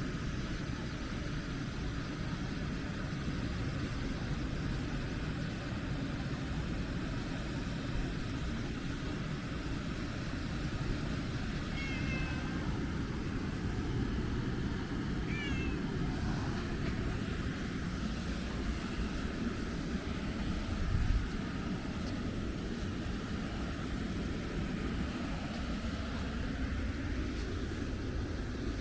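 Calico cat meowing a few times in short calls, about twelve and fifteen seconds in and again near the end, over a steady low rumble of background noise. A single soft thump about two-thirds of the way through.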